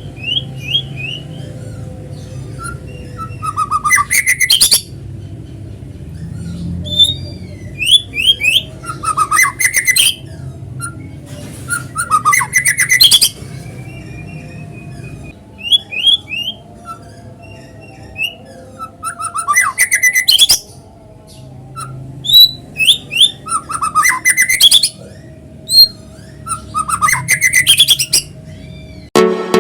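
White-rumped shama (murai batu) singing: loud, varied phrases of whistles and rapid trills every few seconds, over a steady low hum.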